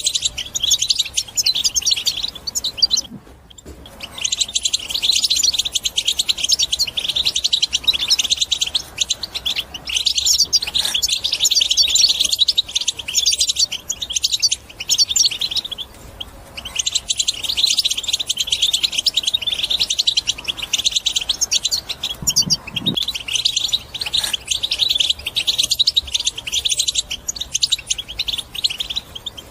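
European goldfinch singing a fast, continuous twittering song in long phrases of rapid high notes, broken by brief pauses about 3 s and 16 s in.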